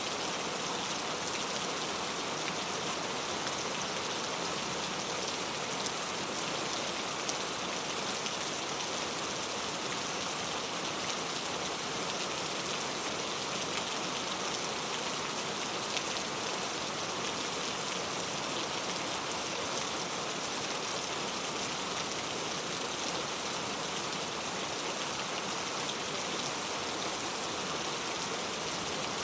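Steady rain falling, an even hiss of many drops with faint fine pattering and no breaks.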